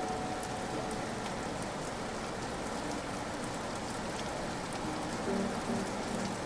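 Steady rain falling, an even hiss of many small drops, with a few faint held musical notes coming in during the last second or so.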